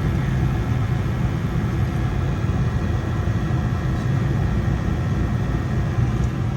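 American Standard gas furnace running with its burners lit: a steady low rumble of burner flame and inducer fan.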